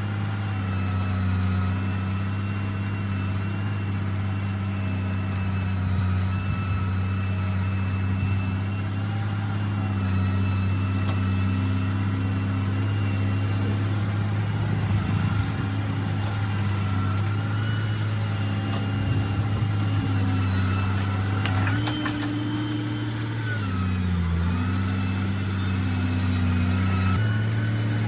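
Heavy diesel engine of road-construction machinery running steadily. Its speed rises briefly about three-quarters of the way through, dips, then settles back.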